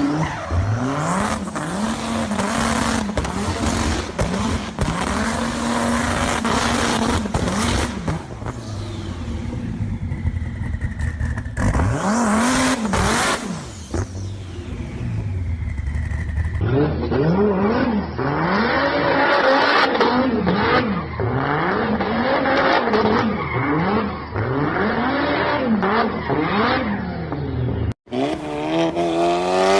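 Sports car engines revved up and down over and over, with exhaust pops and crackles between the revs. The sound changes abruptly about two-thirds of the way through and again just before the end, as one car's clip gives way to the next.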